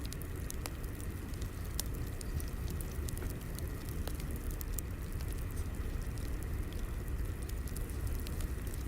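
Fire burning steadily with a low rumble and irregular sharp crackles and pops of burning wood.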